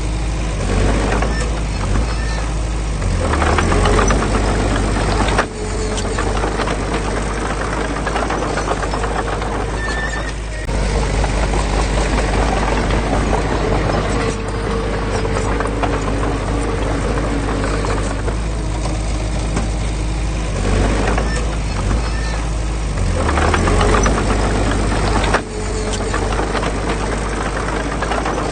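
Diesel engine of heavy earthmoving machinery running steadily under load, with continuous clattering and clanking over it.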